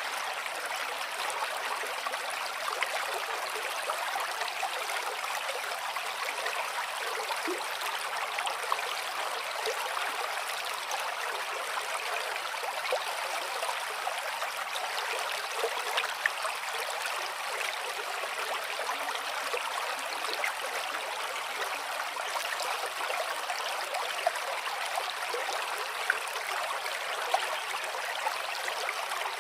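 Shallow stream flowing steadily, a continuous rushing and trickling with small splashes scattered through it.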